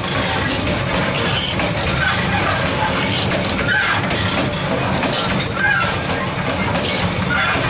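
A passenger train running, heard from the gap between two coaches: a loud, steady rumble and rattle of wheels on rail, with a short squeal repeating about every two seconds.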